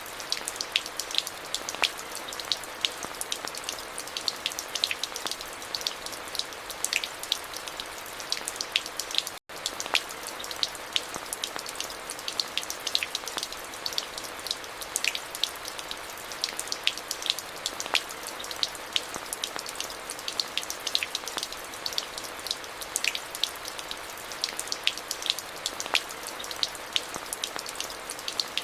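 Steady rain, with many sharp individual drop ticks over an even hiss. There is a split-second break in the sound about nine seconds in.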